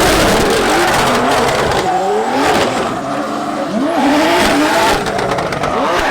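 A car drifting: its engine revving up and falling back several times, over steady tyre noise.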